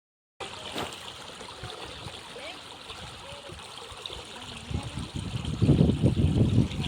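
Small stream trickling and gurgling past a paddy field; about five seconds in the water sound grows louder and lower.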